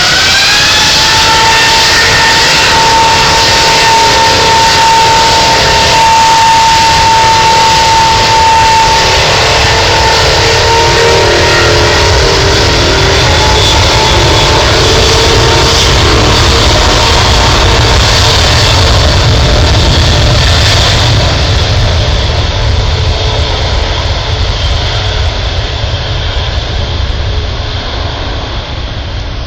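Airbus A380's four Rolls-Royce Trent 900 jet engines spooling up for takeoff: a whine rising in pitch over the first second or so, then loud, steady engine noise with a high tone running through it. The sound fades over the last several seconds as the jet moves away.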